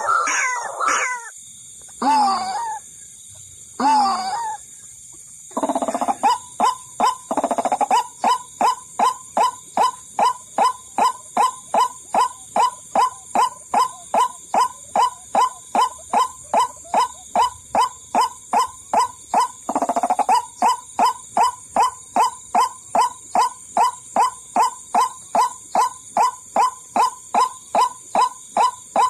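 White-breasted waterhen (ruak-ruak) calling, as played for a bird lure: a few separate calls at first, then from about six seconds a long, even run of short repeated notes, about three a second.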